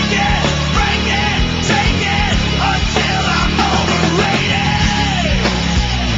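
Loud distorted punk/metal rock music: heavy electric guitars and drums, with bending guitar or vocal lines over the top.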